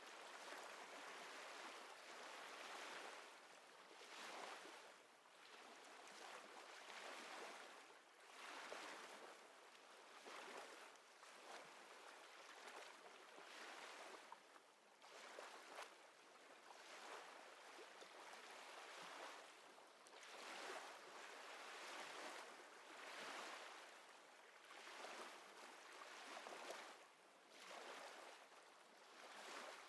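Faint small waves lapping at the shore, a soft wash that swells and eases every two seconds or so.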